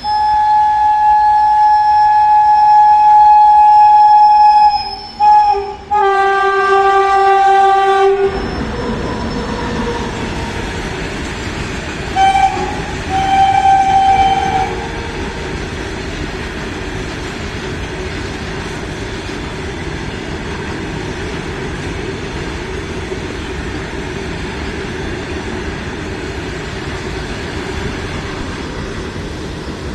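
WAG-9 electric locomotive's air horn sounding one long blast, then after a brief break a second blast with a lower tone. From about eight seconds in, the goods train passes with steady rail and wagon noise, broken by two short horn toots a few seconds later.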